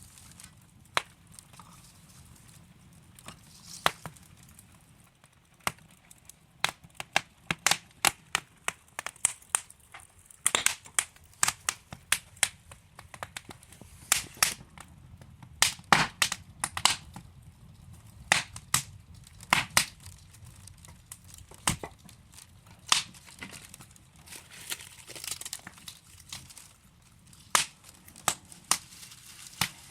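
Wood fire burning in a fireplace: irregular sharp crackles and pops of burning logs over a faint low hiss, busiest through the middle.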